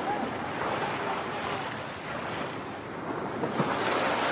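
Ocean waves breaking, with wind rushing over the microphone. The noise eases a little in the middle and swells again near the end.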